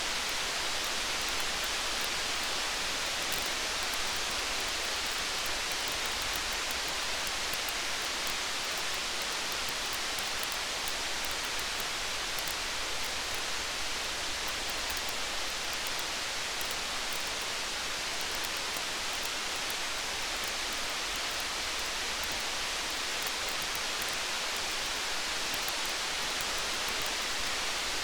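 Steady rain, an even hiss with many faint light ticks of drops.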